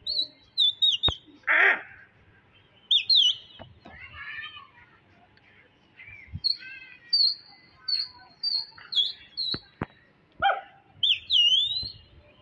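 Wild birds calling: many short, high whistled chirps, some dipping and rising in pitch, with a couple of harsher calls. A few sharp clicks come in between.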